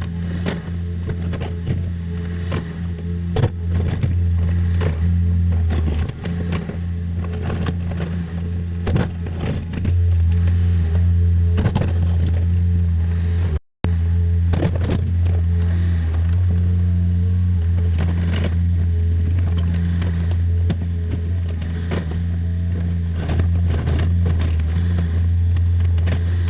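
Compact excavator's diesel engine running steadily, with scattered knocks and clanks throughout. The sound cuts out briefly near the middle.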